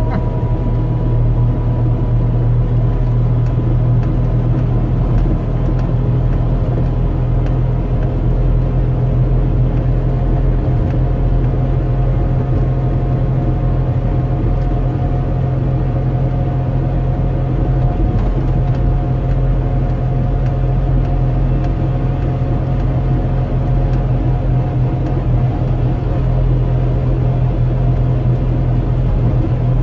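Trabant 601's two-cylinder two-stroke engine running at a steady, even speed, heard from inside the cabin along with road noise.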